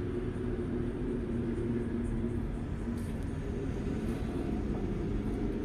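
A steady low mechanical hum, with a few faint knocks.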